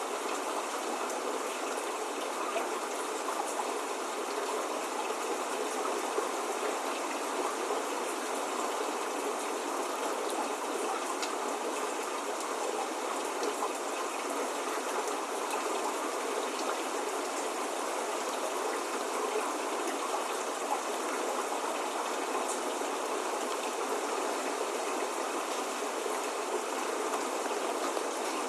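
Steady spring rain: an even hiss of many drops, with the odd single drop ticking out from it.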